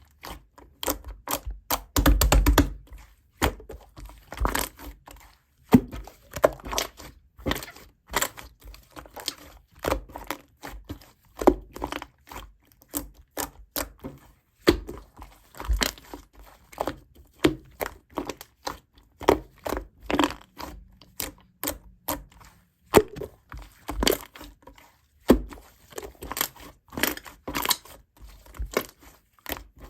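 Hands handling small objects and packaging: a dense run of irregular taps, clicks and crinkles, with a heavier cluster of knocks about two seconds in.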